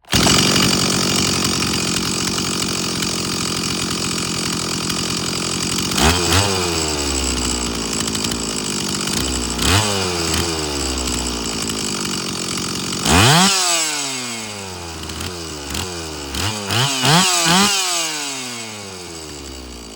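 Stihl 034 two-stroke chainsaw engine running steadily, its carburettor's low and high speed jets set to one full turn out as a fresh starting point. The throttle is blipped several times, the engine revving up and dropping back, with a cluster of quick revs near the end before it dies down.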